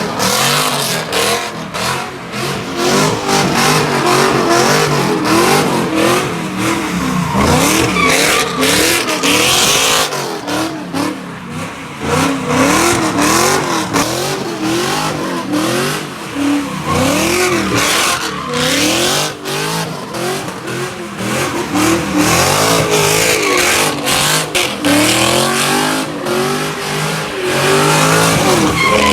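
A car engine revving hard, its pitch rising and falling over and over, with tires squealing and skidding as the car spins donuts.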